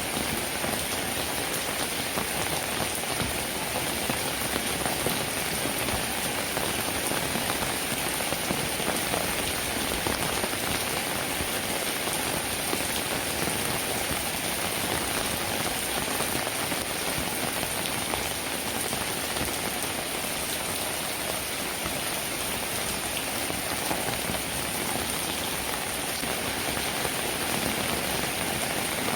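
Steady rainfall, a dense even patter of raindrops on a roof.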